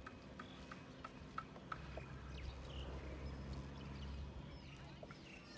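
Small birds chirping repeatedly in short calls. A faint low rumble runs from about two to four seconds in.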